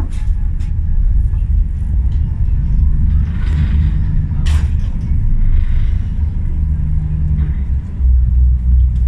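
Boat under way, heard on board: a loud, continuous low rumble of the engine mixed with wind on the microphone.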